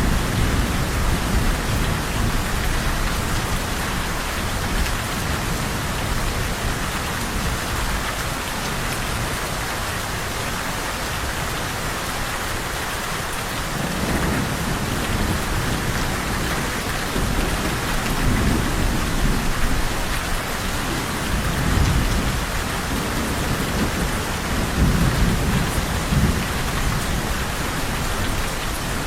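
Steady heavy rain falling on a surface, with low rolling thunder rumbling at the start and again through the second half, swelling around two-thirds of the way in.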